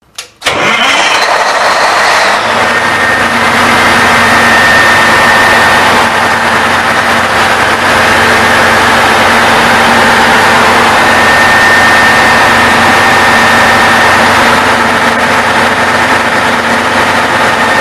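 Caterpillar 500 kW diesel generator set running steadily and loudly, a constant engine drone with a faint steady whine in it, starting about half a second in.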